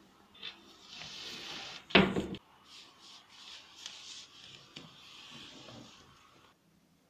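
Household handling sounds: a single loud knock, like a cupboard door or drawer, about two seconds in, with soft rubbing and rustling before and after it that stops near the end.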